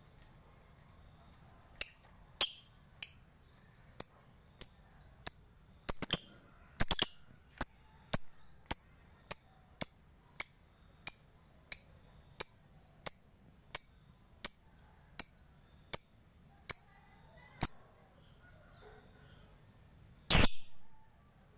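A lovebird making a long run of sharp, high ticking calls, under two a second, the 'ngetik' call that bird keepers prize. Near the end it gives one louder, longer call.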